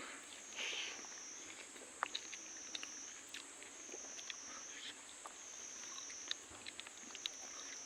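A steady, high-pitched insect chorus that rises and falls slightly in pitch every second or so, with scattered faint clicks and crunches of someone eating fried fish.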